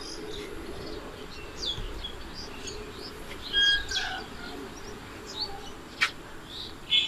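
Small birds chirping in many short, high calls over a faint steady low hum, with a single sharp click about six seconds in.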